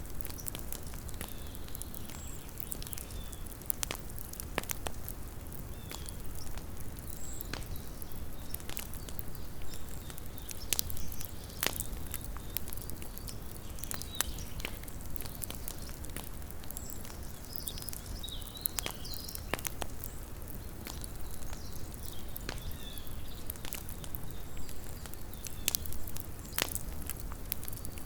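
Small wood campfire crackling, with irregular sharp pops and snaps over a low steady rumble.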